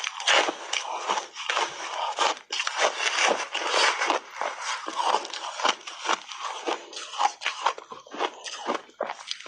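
A person biting and chewing crunchy shaved ice, a dense irregular run of crisp crunches.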